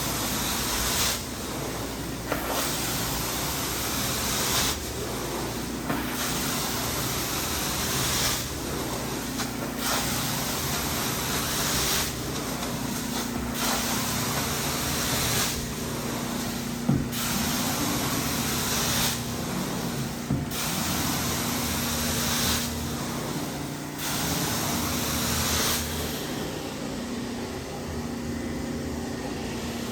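Hot water carpet extractor at work: a spray-and-suction hiss swells for about two seconds and eases, roughly every three and a half seconds, in time with passes of the cleaning wand, over the steady hum of the machine. The hissing stops near the end while the hum goes on.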